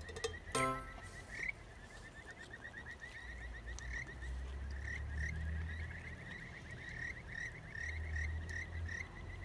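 Frogs calling in a steady, fast pulsing trill, with short rising chirps about once a second.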